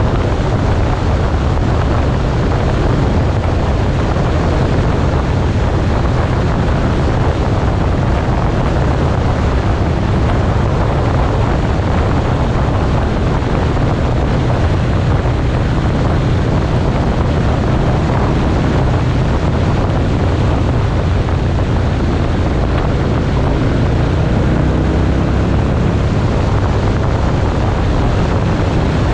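Wind buffeting the microphone of a camera on a moving motorcycle, a steady loud rush with the bike's engine running underneath.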